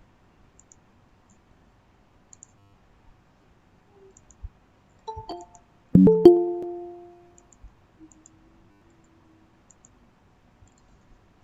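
Short electronic chime from the computer: two quick tones about five seconds in, then a louder chord of several notes about a second later that rings out and fades over about a second and a half, with faint mouse clicks around it.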